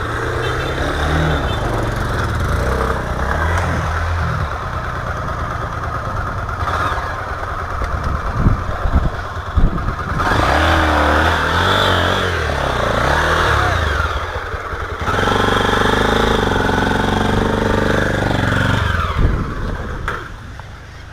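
Single-cylinder trail motorcycle engine running and revving up and down as the bike rides a dirt trail, with a few sharp knocks about halfway through. The engine note drops away near the end.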